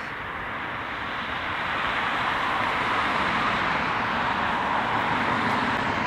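Jet engines of a Qantas Airbus A330-200 at takeoff power, a steady rushing noise that slowly grows louder.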